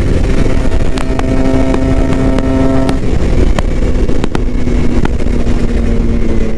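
Kawasaki Ninja RR 150's two-stroke single-cylinder engine running at a steady pitch while the bike is ridden fast, with heavy wind rumble on the microphone.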